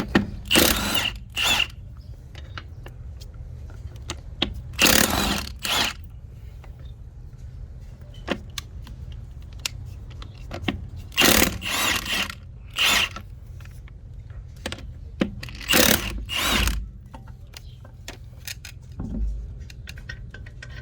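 Impact driver with a 7/8 socket hammering in short bursts of about a second, in groups a few seconds apart, as it loosens the lug nuts of a pickup's wheel.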